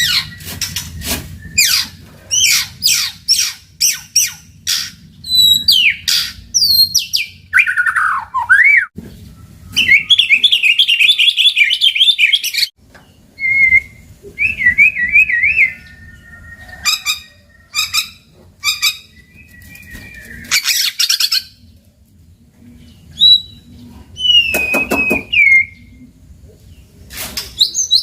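White-rumped shama singing a loud, varied song: sharp clicks, clear whistled notes and slurs, a fast buzzy trill of about two and a half seconds, chattering rattles and a falling whistle, in phrases with short pauses between them. A low steady hum lies under it.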